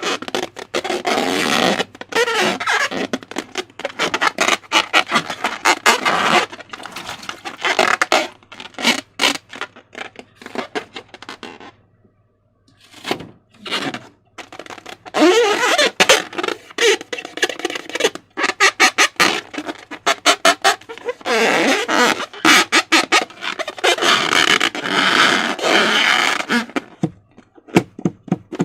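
Slime being squeezed and stretched by hand, with dense wet clicks and crackles and short squelching, farting squeaks, briefly quiet about halfway through.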